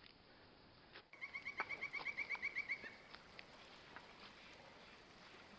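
A bird calling in a rapid trill of about a dozen short, evenly spaced notes lasting about a second and a half, followed by a few faint clicks over the quiet forest background.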